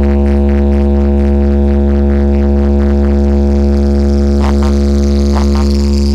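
A DJ sound system playing a loud, steady low drone, a sustained bass note with a stack of overtones, during a speaker test. A few sharp clicks cut in about four and a half and five and a half seconds in.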